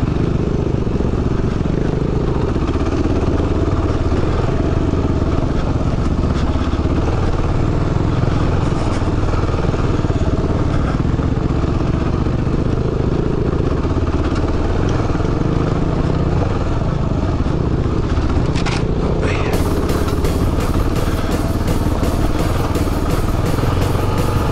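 Single-cylinder engine of a Kawasaki KLR 650 dual-sport motorcycle running steadily at trail speed, picked up close by the camera mounted on the bike.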